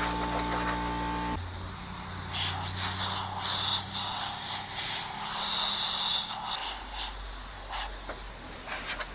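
A machine hum with several steady tones cuts off about a second and a half in. Bursts of hissing water spray follow, the strongest lasting a couple of seconds in the middle, as a motorcycle is washed.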